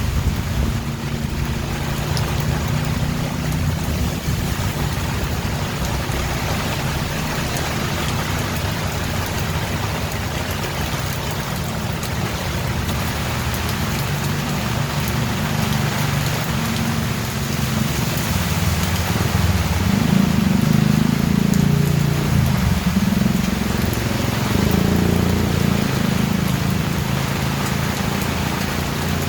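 Steady rain with a low rumble underneath that swells about twenty seconds in and again near the end.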